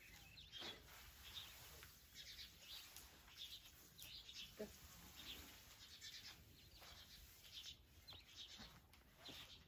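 Faint bird chirps repeating every half second to a second, over a quiet background.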